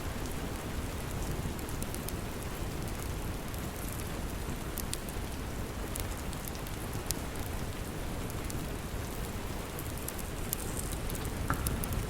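Steady rain, a dense even hiss, with a few sharp, separate crackles from a log fire scattered through it.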